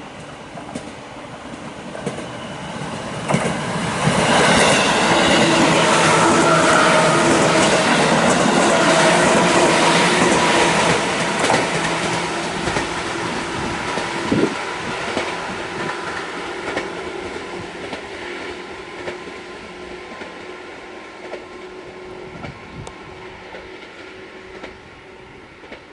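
A JR 211 series electric train passes at close range: its wheels clatter over the track as it grows loud about four seconds in, then fade slowly as it pulls away.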